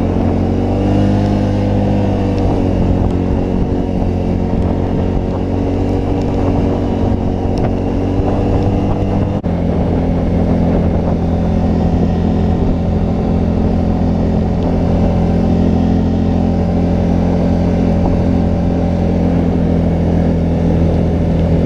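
Can-Am Outlander XT 650's V-twin engine running steadily under load in four-wheel-drive low range, pulling the ATV through deep snow. The engine note dips slightly about a second in, and there is a short break in the sound about nine seconds in, after which the note settles at a slightly different pitch.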